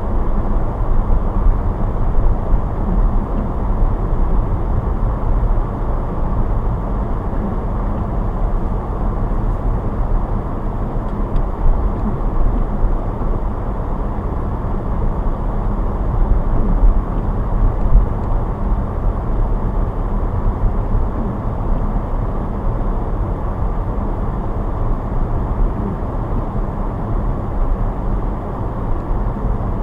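Car driving on snowy roads: steady, low road and engine noise with no distinct events.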